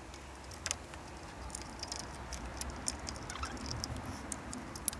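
Scattered light clicks and scrapes of metal on metal as an oil pan, still stuck to its silicone sealant, is nudged by hand and pried with a flathead screwdriver, over a low steady hum.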